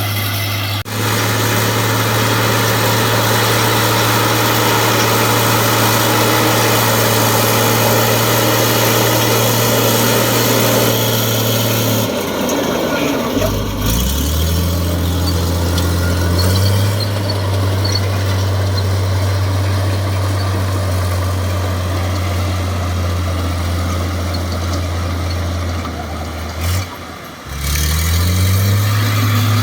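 Heavy diesel engine of an earthmoving machine running steadily at high revs. Twice it drops in speed, about halfway through and again near the end, and each time revs back up.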